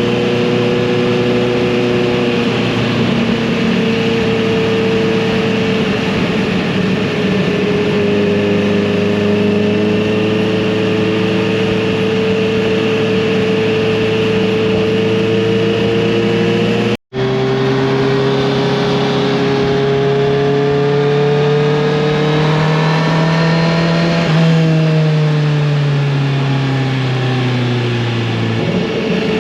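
Motorcycle engine and exhaust at a steady cruise, with a split-second dropout about two-thirds of the way in. After it the engine note climbs slowly, then falls away over the last few seconds as the bike rolls off the throttle.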